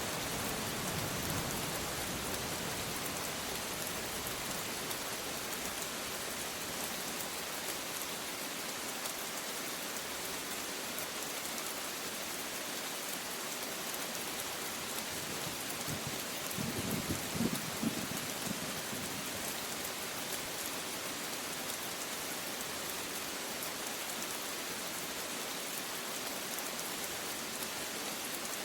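Steady rain falling on a surface, an even, dense hiss. A low rumble of thunder fades out at the start, and a short low rumble comes about two-thirds of the way through.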